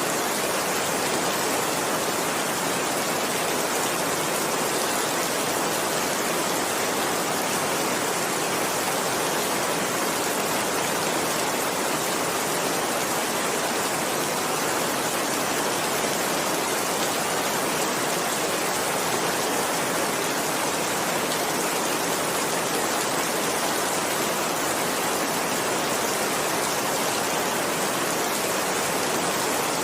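Steady heavy rain falling, a dense even hiss with no thunder.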